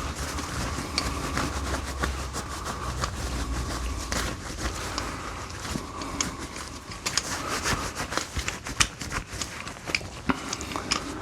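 Scattered light clicks and small knocks of a restored steel G-clamp being handled on the bench, over a faint steady hum.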